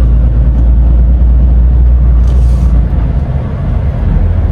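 DAF XF truck driving, heard from inside the cab: a steady low drone of engine and road noise that eases a little about three seconds in, with a brief high hiss near the middle.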